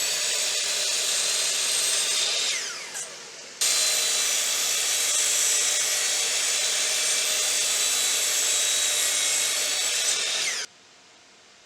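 High-speed electric power tool motor running with a steady high whine. It winds down about two and a half seconds in, runs at full speed again from about three and a half seconds, then stops near the end.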